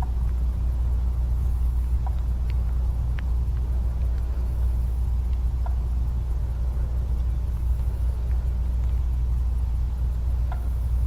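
Steady low rumble, with a few faint, short high chirps or ticks scattered over it.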